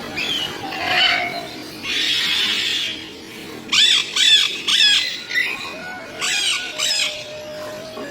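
Blue-and-yellow macaws squawking: a long harsh squawk, then a quick run of sharp calls about halfway through, and two more near the end.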